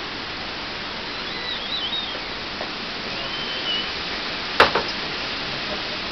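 Storm wind blowing steadily, a dense rushing noise, with a few short high chirps and one sharp knock a little past halfway.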